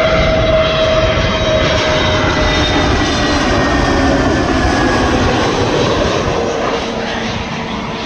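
Jet airliner on final approach passing low overhead: loud engine noise with whining tones that slowly fall in pitch as it goes by, fading near the end.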